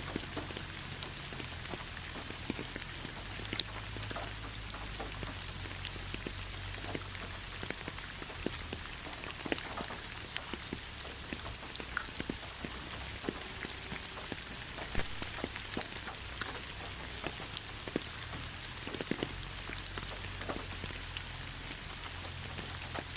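Steady rainfall: an even hiss of rain with many separate drops ticking and splashing at irregular intervals.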